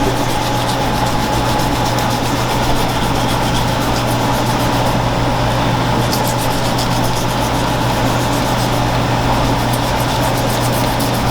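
A steady low mechanical hum with quick, repeated scraping strokes over it, typical of a knife being scraped along a large fish as it is prepared.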